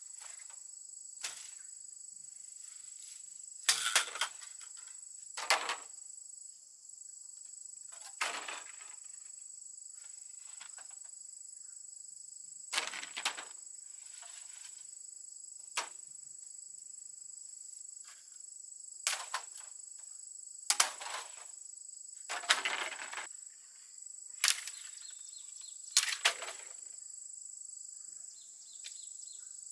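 Repeated swishing strikes of a hand tool, coming irregularly about every one to three seconds, over a steady high insect drone.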